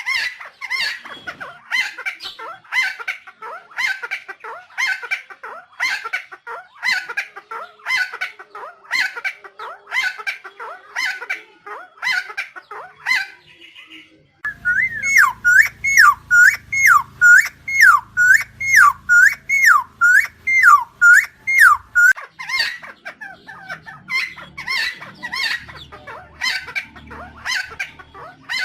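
Helmeted friarbird calling in a fast run of repeated short notes. About halfway through comes a louder series of about eleven swooping calls, each dipping down in pitch and back up, before the short repeated notes return near the end.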